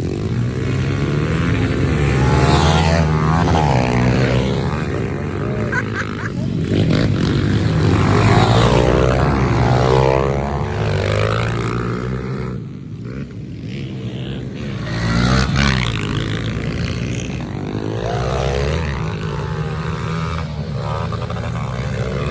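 Several pit bike engines racing together, each revving up and down through the gears, their overlapping whines rising and falling continuously. The sound dips briefly about twelve seconds in, then swells again.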